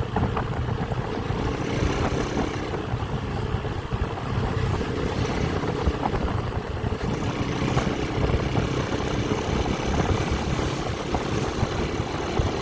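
Motorcycle engine running steadily while being ridden, a continuous low hum mixed with road noise.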